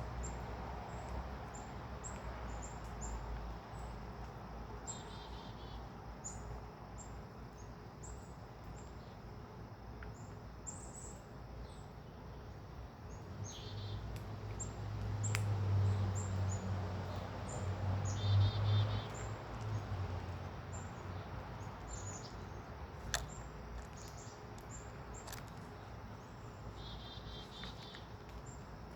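Small birds chirping: many short, high notes throughout, with a rapid trilled phrase every several seconds. A low rumble swells and fades in the middle.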